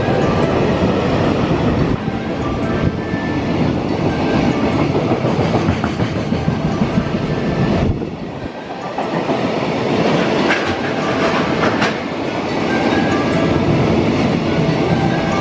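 Freight train rolling past, its wagons rumbling with a clickety-clack of wheels over rail joints. The sound dips briefly about halfway through, then comes back with sharper clacks.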